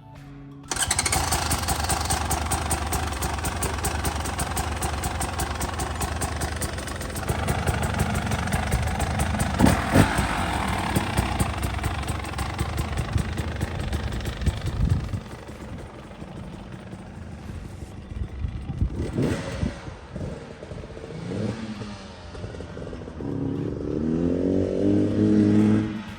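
Dirt bike engine starting abruptly and running with a fast, even firing rhythm, revved several times, then dropping to a quieter run with short blips of the throttle over the second half.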